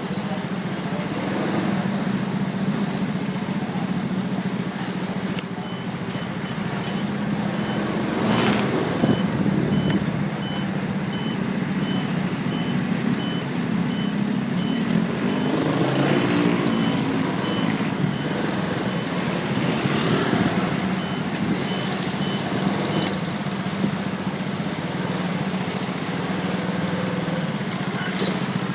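Motorcycle engine running steadily under wind and road noise in traffic, with other vehicles swelling past about a third and halfway in. A faint high beep repeats evenly through the middle, and a high steady squeal sets in near the end.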